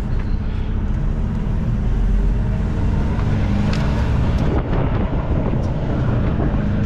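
Semi truck's diesel engine running steadily, with a couple of faint clicks about four seconds in.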